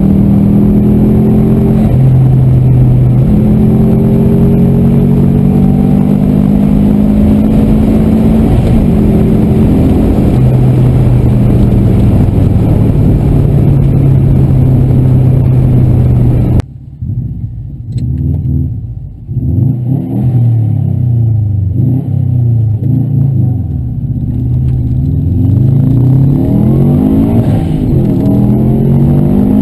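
Subaru Version 5 WRX STI's turbocharged flat-four engine heard from inside the cabin, pulling under load with steps in pitch at gear changes. Partway through the sound cuts abruptly, and the engine then revs up and changes gear several times in quick succession.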